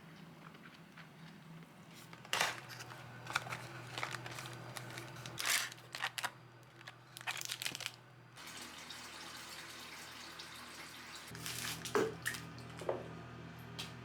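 Crinkling and rustling with scattered clicks as things are handled, then a steady low hum comes in about 8 seconds in, with a couple of light knocks near the end.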